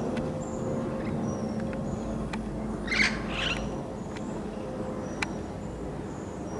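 Wild parrots squawking: two loud harsh calls close together about three seconds in, with faint short high chirps scattered around them.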